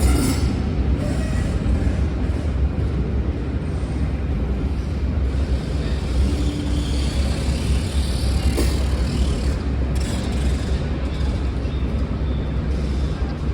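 Class 52 'Western' diesel-hydraulic locomotive D1015, its twin MTU V12 diesel engines running with a steady, deep rumble.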